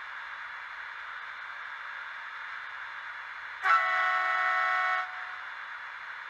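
Sound decoder of a Fleischmann N-scale DB BR 182 Taurus model locomotive, heard through the model's small speaker. It plays a steady hiss of the locomotive's running sound. About two-thirds of the way in, a horn sounds as one steady blast of about a second and a half, then cuts off sharply.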